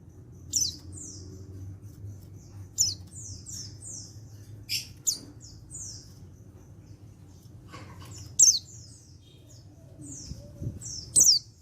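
Male white-eye (pleci) calling: short bursts of high, thin notes that each slide downward in pitch, in groups of two to five, about five times with gaps of a second or more between.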